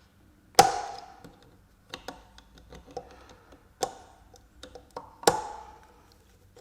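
Steel tools knocking and clinking against a ZF 6HP26 transmission clutch drum while prying out a tight snap ring. There are two sharp metallic clinks with a brief ring, about half a second and five seconds in, and lighter taps and clicks between them.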